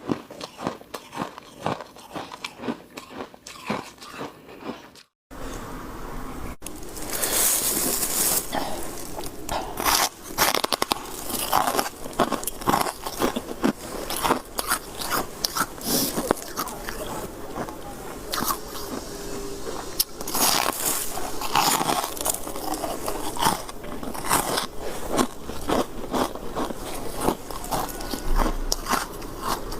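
A person biting and chewing white shaved ice close to the microphone, rapid irregular crunches one after another. The crunching drops out briefly about five seconds in, then resumes louder.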